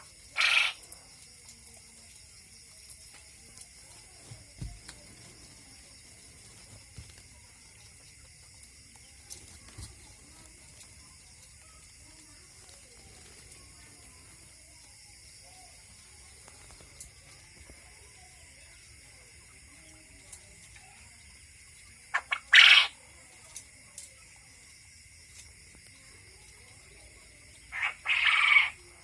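Quail calling three times: a short call about half a second in, a quick run of pulses about 22 seconds in (the loudest), and a two-part call near the end, over a steady high-pitched background drone.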